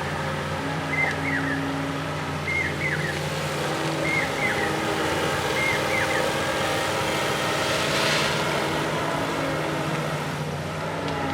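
Backhoe loader's diesel engine running steadily. A short double chirp repeats about every second and a half for the first six seconds, and a brief hissing rush comes about eight seconds in.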